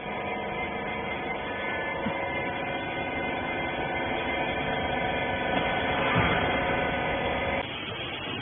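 Hydraulic rag baler's electric motor and pump running with a steady multi-tone hum, then stopping abruptly near the end.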